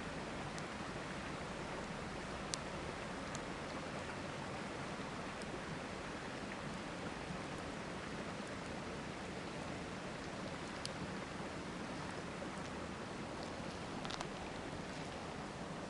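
Steady rush of a river with a wood campfire crackling over it: a few sharp, isolated pops, the loudest about two and a half seconds in.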